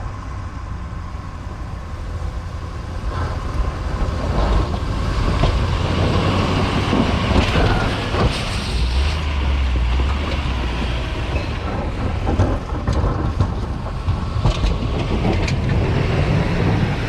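Duramax diesel V8 of a 2024 Silverado 2500HD running as the truck plows snow, growing louder about three seconds in. A rushing noise and scattered knocks sit over the engine drone.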